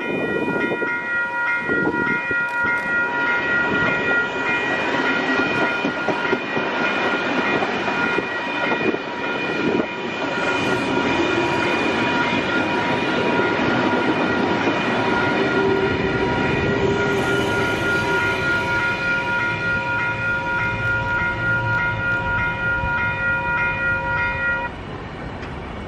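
Level crossing warning bell ringing steadily while a Sydney K set double-deck electric suburban train passes, its wheels rumbling and clattering on the rails. The bell and the train noise cut off suddenly near the end.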